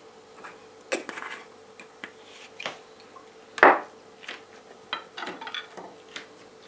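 Dishes and cutlery clinking and knocking as a meal is handled on a plate: a string of short irregular knocks, the loudest a little past halfway.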